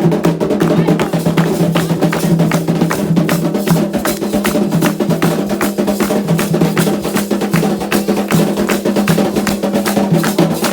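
Candomblé ceremonial drumming on atabaque hand drums: a fast, dense, unbroken rhythm of drum strokes.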